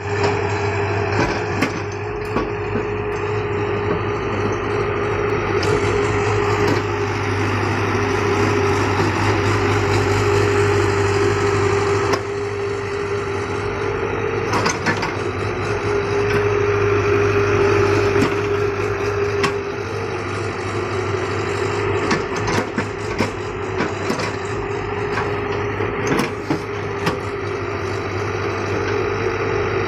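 An engine running steadily at a constant speed, with scattered sharp knocks and clicks over it.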